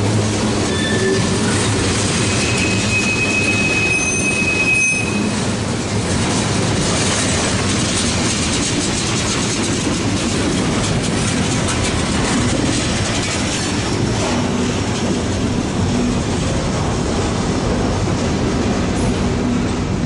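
Loaded coke hopper cars of a freight train rolling past close by: a steady rumble and clatter of steel wheels on the rails. A high wheel squeal rings for a few seconds, from about two and a half seconds in.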